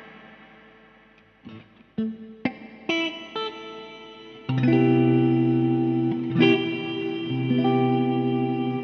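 Electric guitar played through the Caline Barn Owl reverb pedal and a lightly driven amp. A note fades away, a few single notes are picked, then a chord is struck about halfway through and left ringing, with another chord a couple of seconds later.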